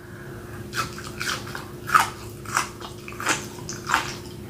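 Close-up chewing of a mouthful of cooked asparagus: mouth sounds of biting and chewing, with a smack about every two-thirds of a second.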